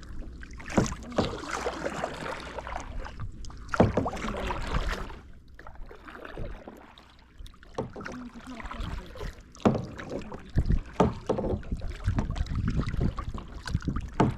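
Kayak paddling: paddle blades dipping and splashing in the water at an uneven pace, with a few sharp knocks along the way.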